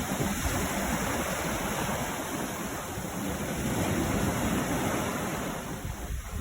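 Sea surf on a beach: a steady rush of breaking and washing waves, easing briefly near the end.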